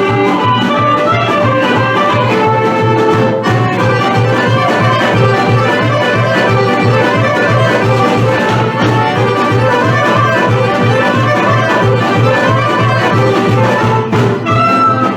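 Instrumental Vlach folk dance medley: a busy melody over a fast, steady bass beat.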